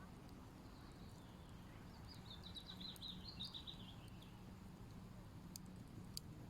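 A small songbird sings one short, rapid twittering phrase about two seconds in, over faint low background noise. A couple of faint sharp clicks come near the end.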